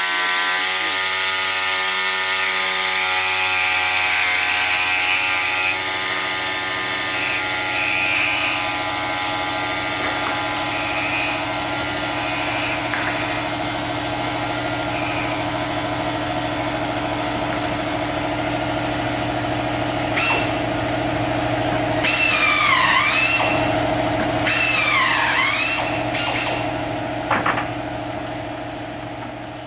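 A motor running steadily with a high hiss, with two short squealing dips in pitch about 22 and 25 seconds in, fading out near the end.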